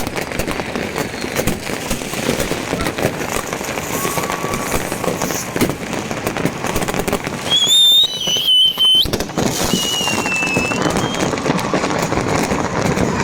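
Fireworks and firecrackers going off all around in a constant crackle of pops and bangs. About eight seconds in comes a loud, shrill whistle lasting about a second and a half, with fainter whistles around four and ten seconds in.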